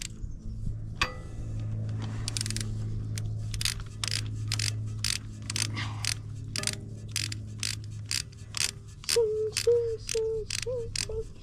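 Socket ratchet wrench clicking as it turns a dirt bike's oil drain plug back into the crankcase, a quick run of ratchet clicks, about two or three a second, over a steady low hum.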